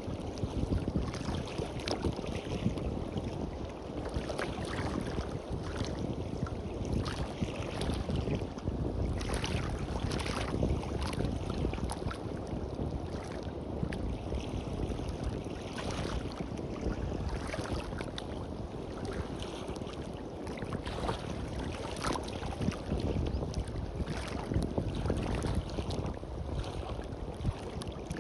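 Small sea waves washing and fizzing on a beach, with many short crackles through the wash and a low rumble of wind on the microphone.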